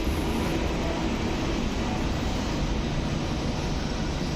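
Steady low rumble and hiss of a railway station platform with trains standing and moving nearby.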